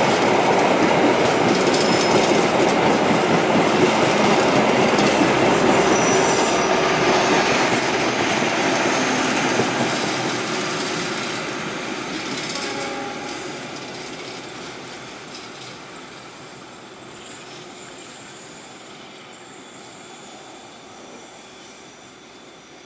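Indonesian passenger train's carriages rolling past on the rails, a loud steady rumble with a brief high wheel squeal on the curve about six seconds in. The sound fades steadily from about ten seconds in as the train moves away.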